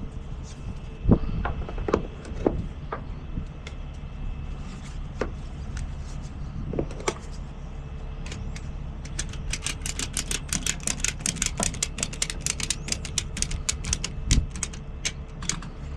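Truck engine idling steadily, with a few scattered knocks early on and then a long run of rapid sharp metallic clicking through the second half.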